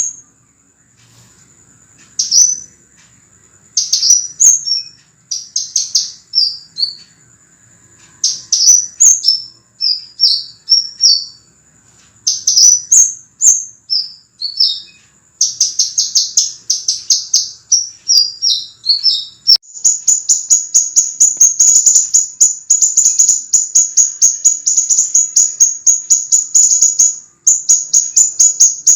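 Scarlet minivet (sepah raja) singing: high, clear, sharp chirp phrases in short bursts, turning about halfway through into a dense, unbroken run of rapid chirps. A faint steady high whine sits under the first two-thirds.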